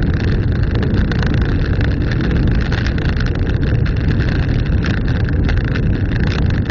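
Vehicle driving on a gravel dirt road, heard from inside: a steady rumble of tyres and engine, with a constant ticking and rattling of small stones.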